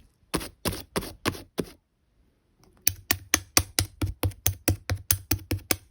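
Sticky slime pressed and released by hand, making crisp sticky pops: five about a third of a second apart, a pause of about a second, then a faster even run of about four pops a second.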